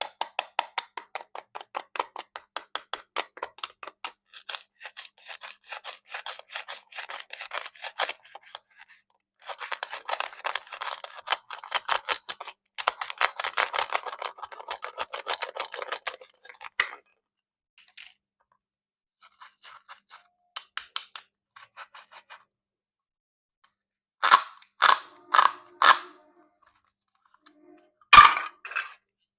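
Plastic toy fruit being cut: a long run of fast clicking and crackling, then sparser clicks, and a few sharp plastic snaps and knocks near the end.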